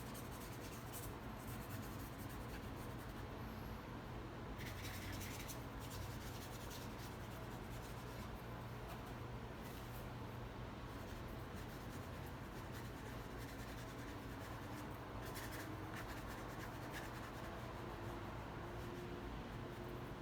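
Faint scratchy strokes of a paintbrush dabbing and rubbing paint on the painting surface, strongest in short spells about five seconds in and again around fifteen to seventeen seconds, over a steady low room hum.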